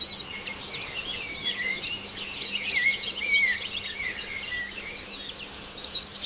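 A chorus of small birds chirping and twittering continuously, many short calls and warbling glides overlapping, over a faint steady low hum.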